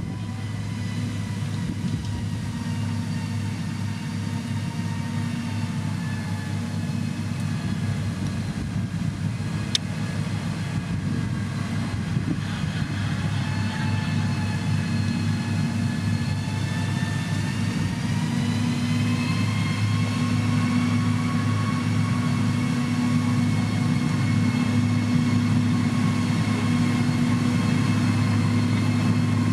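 Heavy construction machine's diesel engine running steadily under work, with a high whine that dips and then rises in pitch as the revs change, and one sharp click about ten seconds in. The sound grows slowly louder toward the end.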